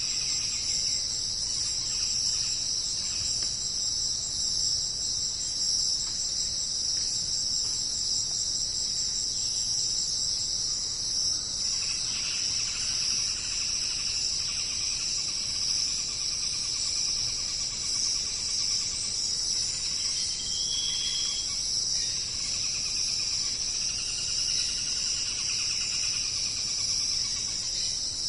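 Dense chorus of insects trilling steadily and high, with fainter shorter calls coming and going beneath it and one brief clear tone about twenty seconds in.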